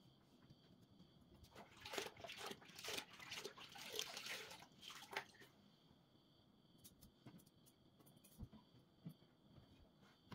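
Household handling noise: a run of light clicks and rustling for about three and a half seconds starting near two seconds in, then a few faint taps.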